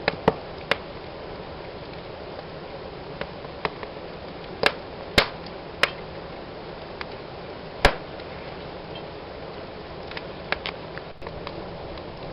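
Wood fire burning in a fireplace: a steady low hiss with irregular sharp crackles and pops, the loudest about a second in, around four to five seconds and near eight seconds.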